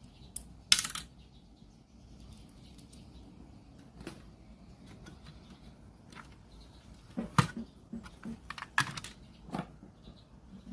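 Scattered sharp clicks and light taps of small parts and tools being handled. There is one louder click about a second in and a cluster of clicks about seven to ten seconds in.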